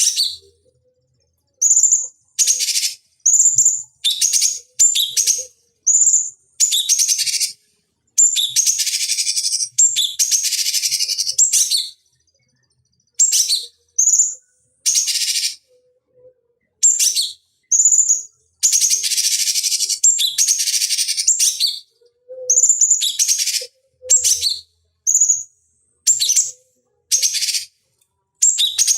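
Cucak cungkok singing: a run of short, high sweeping chirps and longer rasping, buzzy phrases, each call cut off by a silent gap.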